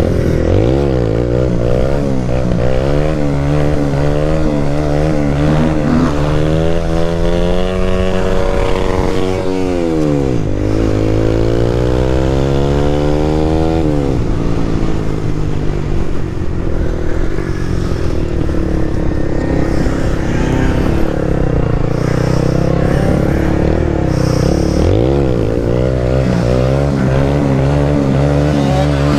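Motorcycle engine running, revved up in long rising sweeps that drop back sharply, several times, over a steady lower engine note.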